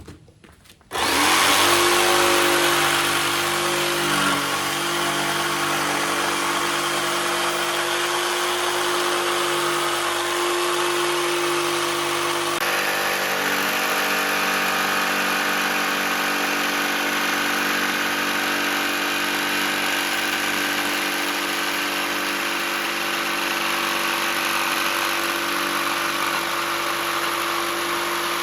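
Electric jigsaw starting about a second in and running steadily as it cuts a bowl-shaped hole in a 1x10 wooden board, a steady motor hum under the hiss of the blade in the wood.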